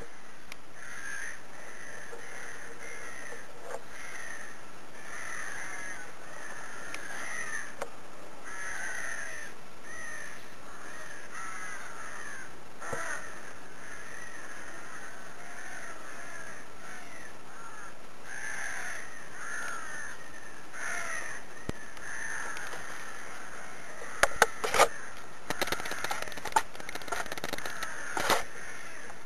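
Many birds calling over and over, short calls overlapping throughout. A run of sharp clicks and snaps comes near the end.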